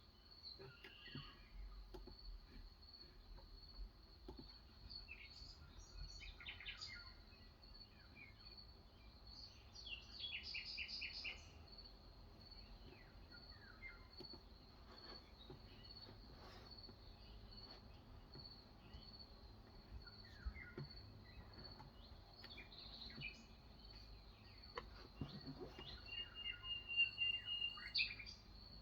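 Birds chirping on and off, with a fast trill about ten seconds in and a louder run of chirps near the end, over a steady high-pitched hum. A few scattered soft keystrokes come from an electro-capacitive keyboard.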